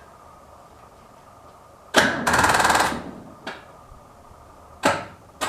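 Starter motor of a David Brown tractor from about 1975 engaging with a clunk and cranking the engine fast for about a second, then two short jabs of cranking near the end; the engine does not catch. The owner suspects the new ground connection is not as good as it should be.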